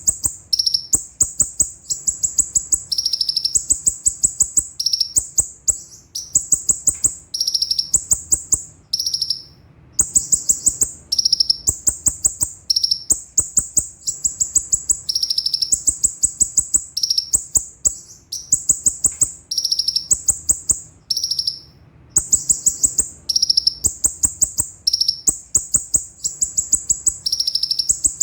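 Konin (kolibri ninja) sunbird singing a high-pitched song of fast rolled trills, with one short phrase after another and brief gaps between them. Many phrases slide down in pitch.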